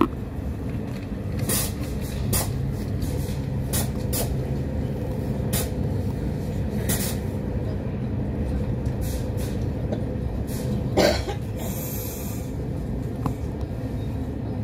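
Passenger train running, heard from inside the carriage as a steady low rumble with scattered clicks and knocks. A louder knock comes about eleven seconds in and a short hiss about a second later.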